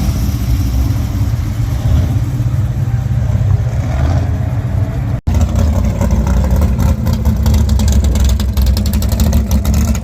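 Car engines running at a car show, a loud steady low rumble. The sound cuts out for an instant about five seconds in, then the rumble comes back with a fast, choppy pulsing.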